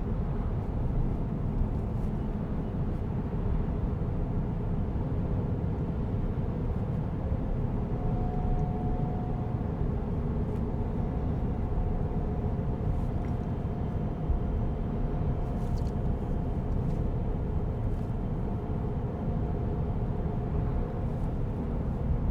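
Steady road and tyre noise of a Tesla Cybertruck driving, heard from inside the cabin: a low, even rumble. A faint steady whine joins it about a third of the way in.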